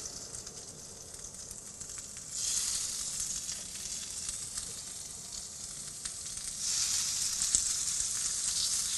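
Salmon skewers sizzling on a hot ridged grill pan. The sizzle swells about two and a half seconds in and again at about seven seconds as more skewers are laid down.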